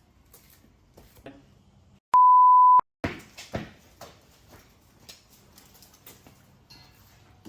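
A single steady 1 kHz censor bleep lasting under a second, about two seconds in, dropped in over a word with dead silence at either edge. Faint clicks and knocks sound around it.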